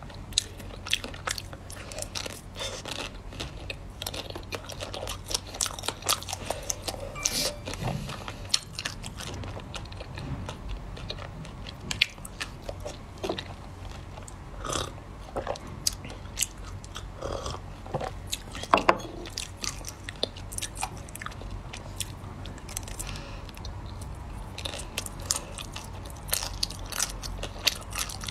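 Chocolate-coated ice cream bar with nut pieces being bitten and chewed: the hard, frozen chocolate shell cracks and crunches between the teeth in irregular bites, with the loudest crunches about two thirds of the way through.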